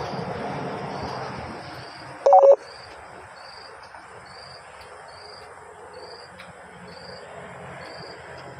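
A passing vehicle fades away in the first two seconds. A short two-note beep, likely a vehicle horn, sounds about two seconds in and is the loudest sound. Under both, an insect chirps high and evenly, about one and a half chirps a second.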